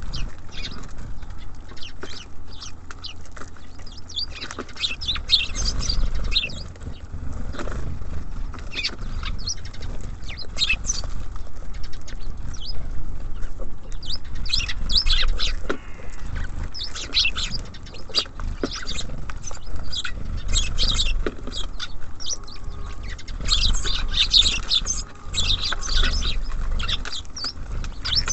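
Small songbirds at a bird feeder chirping and calling in quick short notes throughout, with a few sharp taps, over a low steady rumble.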